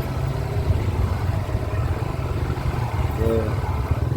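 Small-displacement motorcycle running steadily on the move, a low rumble. A short pitched tone sounds briefly about three seconds in.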